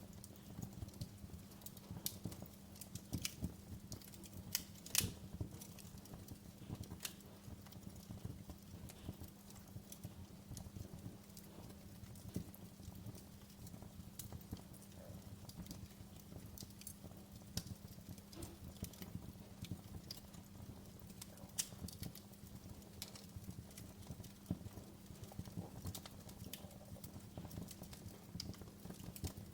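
Wood fire crackling in a fireplace: irregular sharp pops and snaps over a steady low rumble, with one louder pop about five seconds in.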